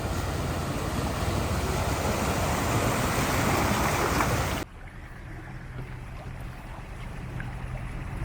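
Wind rushing over the microphone with a vehicle engine running underneath, then an abrupt cut about four and a half seconds in to a quieter, steady low engine hum.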